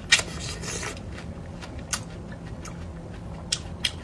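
Close-miked bite into a ripe star fruit, a crisp, wet crunch lasting just under a second at the start, followed by chewing with a few sharp clicks.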